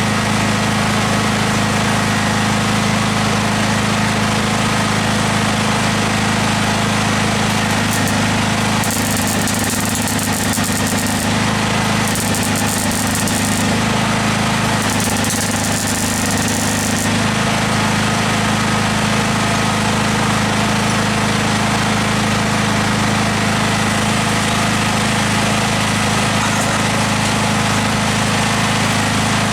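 A steady machine drone with a strong low hum. In three short stretches, about 9, 12 and 15 seconds in, a high hiss comes in and the hum shifts.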